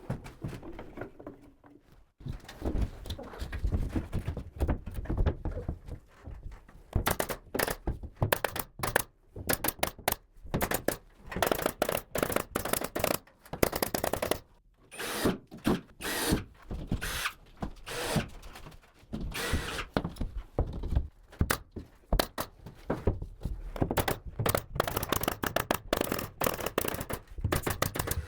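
Carpentry work on a wooden ceiling frame: a dense, irregular run of sharp knocks, bangs and clatter from tools and boards, with a few short pauses.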